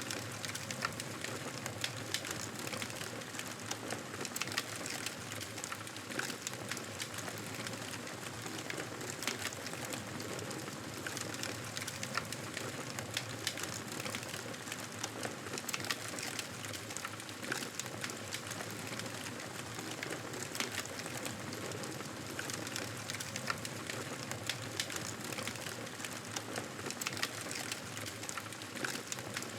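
Campfire burning: a steady hiss with frequent, irregular crackles and pops.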